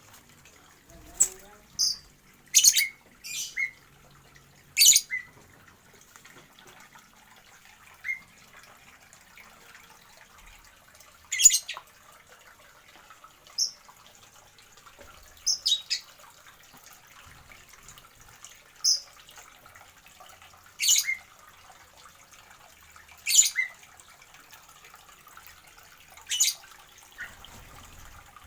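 Small caged birds in an aviary giving short, shrill calls, about a dozen single calls at irregular intervals with gaps of a second or more between them.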